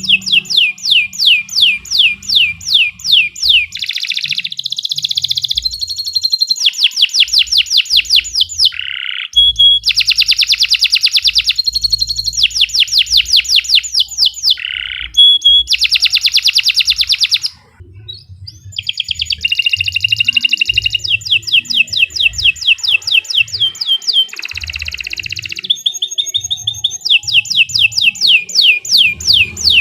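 Domestic canary singing a long, unbroken song of rapid trills, each a fast run of repeated high notes, switching to a new trill every second or two. The song breaks off briefly about two-thirds of the way through.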